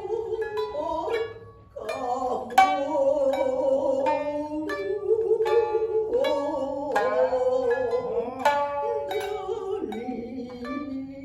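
Shinnai-bushi jōruri: shamisen plucked in sharp, ringing struck notes, joined by a higher-tuned second shamisen (uwajōshi), under a long, wavering sung line from the jōruri narrator-singer.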